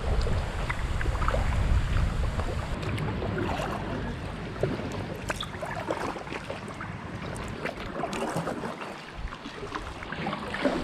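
Wind buffeting the microphone with a low rumble, heaviest in the first couple of seconds and then easing, over the small splashes and drips of kayak paddle strokes in choppy water.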